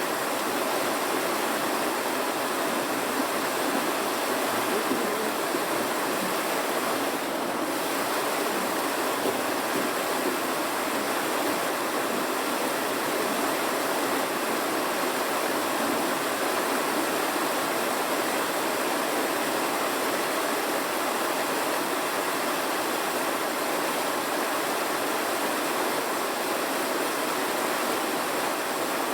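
Steady rushing noise that keeps the same level throughout, with no distinct pattern or separate events.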